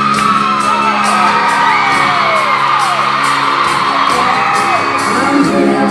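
A live country band at a concert holds a sustained chord over a steady ticking beat while the crowd whoops and screams, with many high calls sliding down in pitch. The held chord fades about four seconds in.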